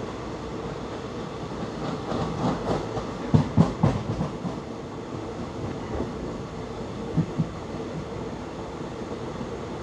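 Passenger express train running slowly, heard from on board: a steady rumble, with a run of wheels clattering over the track from about two seconds in, and a double knock later on.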